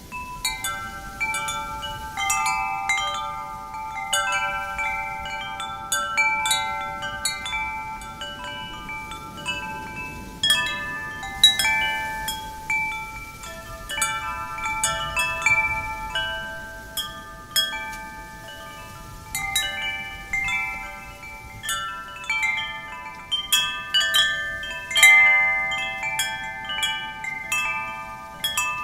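Metal wind chimes ringing, struck at random by the wind: clusters of clear bell-like notes that overlap and fade, over a faint breeze.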